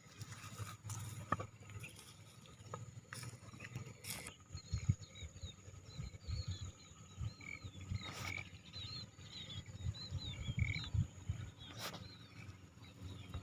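Outdoor rural ambience: irregular low rumbling throughout, with a run of short, high chirps from about four to eleven seconds in and a few brief clicks.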